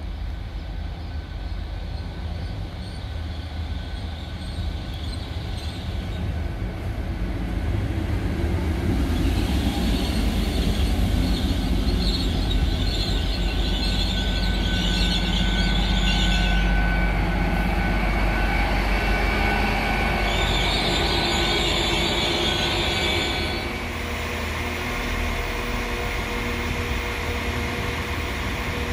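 Train running through the station with a steady low rumble that grows louder about a third of the way in. A high squeal from the train comes in two spells, the second ending about four-fifths of the way through, when the sound drops back.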